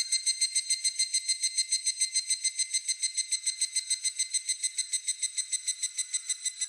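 Higurashi (evening cicada, Tanna japonensis) calling: a loud ringing note repeated in a fast even series, about eight pulses a second.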